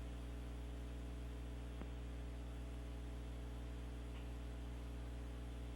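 Steady low electrical hum with a faint hiss underneath: background mains hum on the broadcast audio line.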